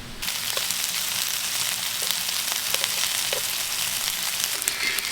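Smoked makchang sizzling on a hot pan, starting abruptly just after the beginning, with scattered small pops.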